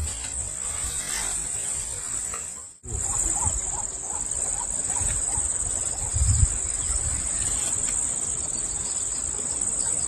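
Insects trilling in a steady, high, unbroken drone that cuts out briefly about three seconds in and then resumes. Low rumbles run underneath, with one sharper thump a little past the middle.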